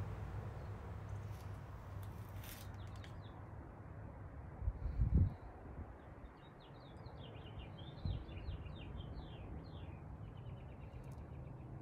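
A small bird chirping in a quick run of short, high notes for a few seconds in the second half, over a low steady hum, with a dull thump about five seconds in.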